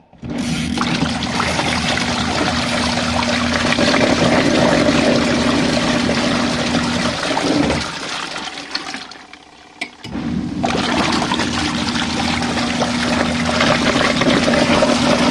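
Compact RV washing machine's motor running with a steady hum, churning water in the tub on a rinse cycle. It stops for a couple of seconds about halfway through, then starts again.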